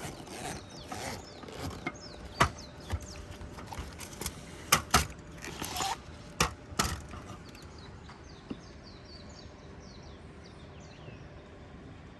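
A series of sharp clicks and knocks from camping gear being handled, loudest around the middle. In the last few seconds a bird calls a quick run of short falling notes.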